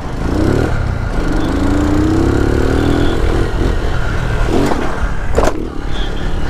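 Small motorcycle engine revving up and down several times, with one longer, slowly rising rev in the first half. A sharp clack about five and a half seconds in.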